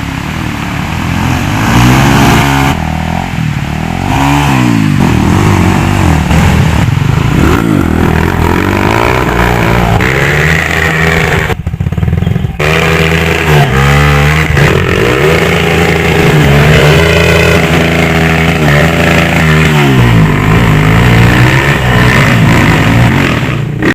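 Off-road trail motorcycle engine revving hard over and over, its pitch climbing and falling every second or two. About twelve seconds in it briefly drops back before revving up again.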